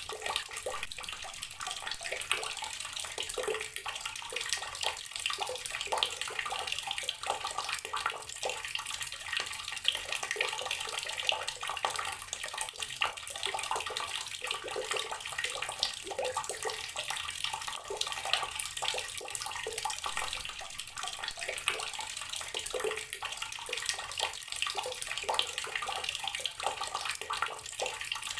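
Water tap running steadily, its stream splashing with constant small spatters.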